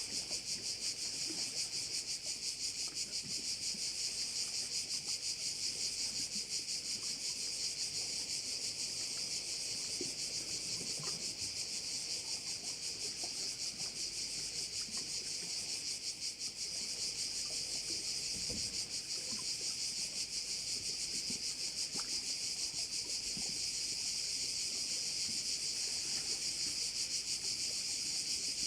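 A chorus of cicadas shrilling without a break, a dense high buzz made of very fast pulses.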